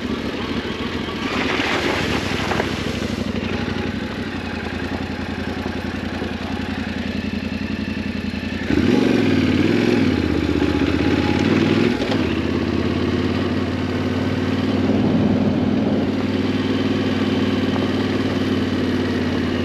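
Yamaha Ténéré 700's parallel-twin engine running steadily. About nine seconds in it gets louder, with the revs rising and falling for a few seconds before settling into a steady pull.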